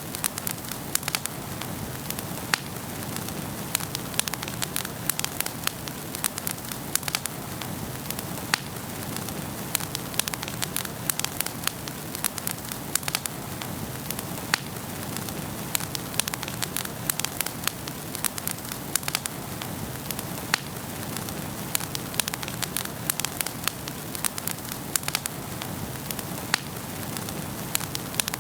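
Wood fire burning in a fireplace: a steady hiss and rush of flames with frequent sharp, irregular crackles and pops.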